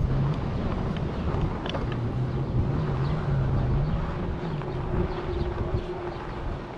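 Wind buffeting the microphone while riding an e-bike, a dense low rumble, with a low hum that wavers up and down in pitch and a fainter higher steady tone from about four to six seconds in.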